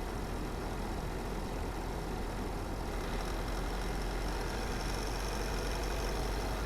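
A car driving, with steady engine and road noise. A faint high hiss joins in about three seconds in.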